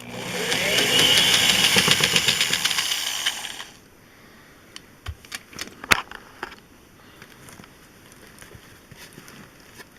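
Power driver running for about three and a half seconds, rising in pitch as it spins up, backing a fastener out of a chair's seat bottom. Then a few light clicks and knocks.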